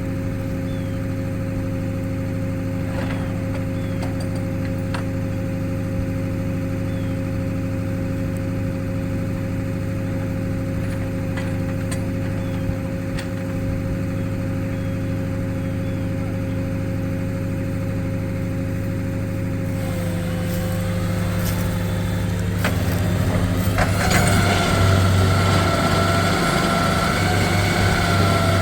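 Truck engine running steadily at idle. About twenty seconds in its note changes, and in the last few seconds it grows louder and a higher whine joins in.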